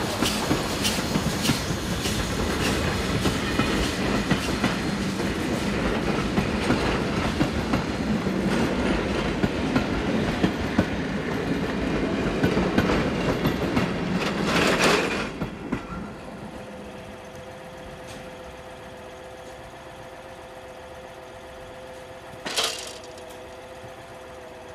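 Steam-hauled train of passenger carriages rolling past close by, the wheels clicking over the rail joints. It fades out fast about 15 seconds in, leaving a quieter steady hum broken by one short clank near the end.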